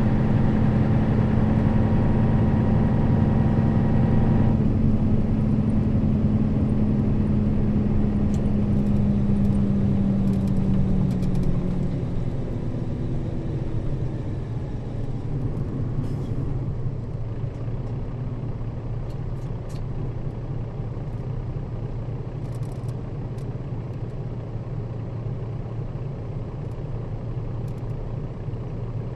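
Nissan Diesel KL-RA552RBN route bus in motion, its engine holding a steady drone under way. The engine note drops away about twelve seconds in, leaving a lower, quieter road rumble with a few faint rattles.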